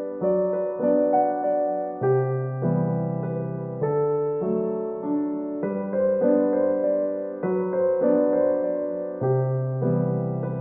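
Background music on a piano-like keyboard: slow, gentle notes and chords, a new one struck about every second.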